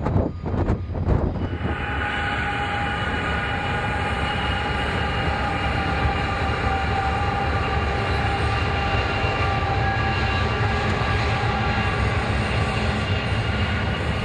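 Train rolling past: steady rumble of wheels on rail, with a few sharp knocks in the first second or two.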